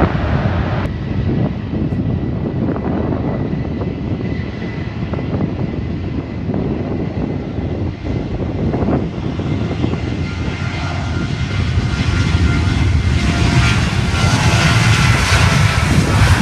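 Airplane engines running, a steady rumble that grows louder from about halfway through as the aircraft comes closer.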